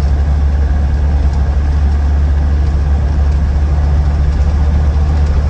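Inside the cabin of a 1999 Land Rover Defender 90 TD5 cruising at about 40 mph: the 2.5-litre five-cylinder turbodiesel runs with a steady low drone under an even road noise, the vehicle trundling along happily with no odd noises.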